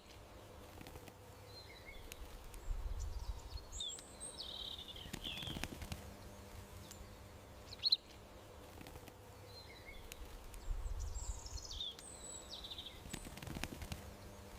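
Small birds chirping and calling over a faint steady hum, with a sharp single chirp about eight seconds in. The same sequence of calls repeats about every eight seconds, as in a looped garden-ambience track.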